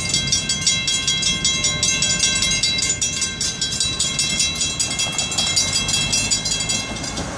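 Railroad grade-crossing warning bell ringing in rapid, even strikes over the low rumble of a passing train. The bell stops shortly before the end.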